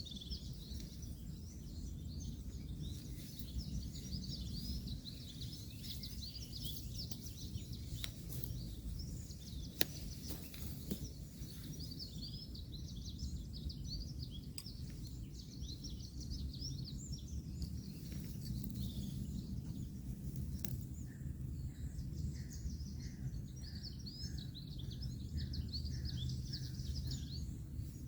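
Many small birds chirping over a steady low rumble of distant road traffic, with a few sharp clicks near the middle. Near the end a bird repeats one short note about eight times.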